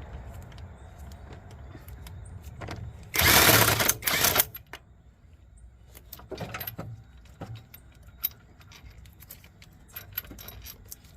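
A loud burst of rapid mechanical rattling about three seconds in, lasting about a second, then scattered metallic clicks and knocks of hand tools working on a car's engine mount.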